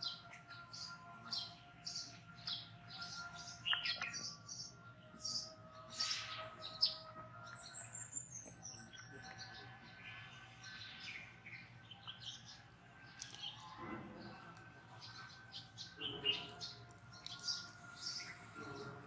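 Small birds chirping in the background: many short, high chirps repeating several times a second, coming and going throughout.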